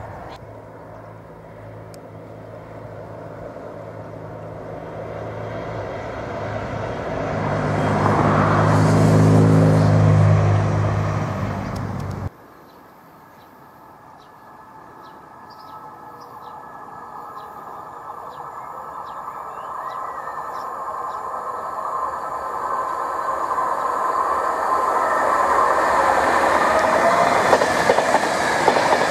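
A diesel multiple unit passes at a distance, its engine note swelling to a peak and then cutting off abruptly. An electric InterCity 225 train, a Class 91 locomotive with Mk4 coaches, then approaches and runs past at speed, a rush of wheel and air noise that grows steadily louder.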